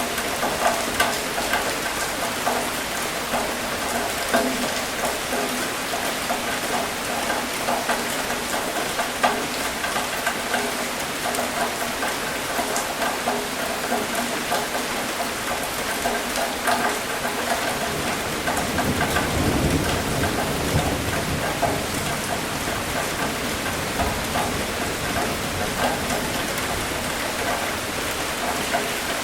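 Steady rain pattering on a surface, with many individual drop hits. A low rumble of thunder swells about two-thirds of the way through.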